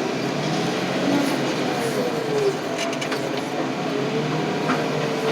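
Car crusher crushing scrap truck frames: a steady machine drone with the metal creaking and squealing in slow gliding tones, and a few sharp clicks and pops.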